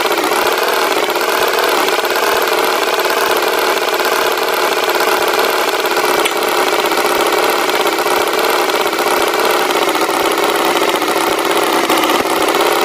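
Tractor engine sound effect running steadily at an even pitch.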